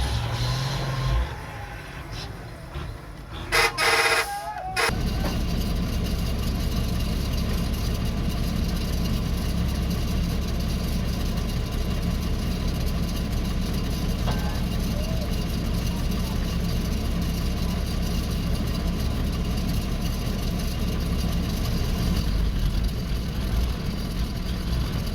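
Bedford dumper truck's engine running steadily with a low drone from about five seconds in, after a short, loud burst of sound about four seconds in.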